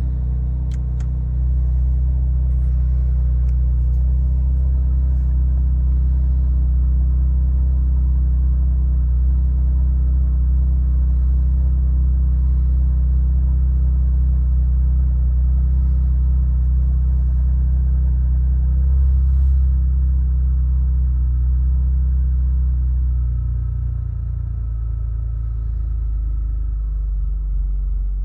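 2018 Porsche Macan Turbo's twin-turbo V6 idling steadily after a cold start, with a deep, even exhaust note. About 23 seconds in the idle eases down and gets quieter as the fast cold idle settles.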